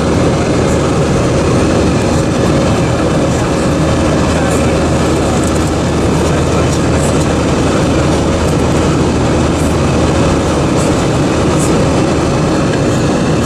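Steady in-flight cabin noise of an Airbus A320-232: a continuous rush of airflow and engine drone, with a faint steady hum and a few light ticks.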